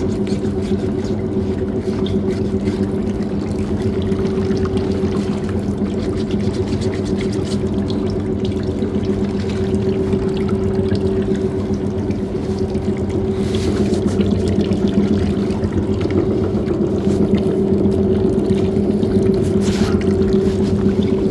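Washing machine running a load of shoes: a steady motor hum with water sloshing and pouring inside the drum.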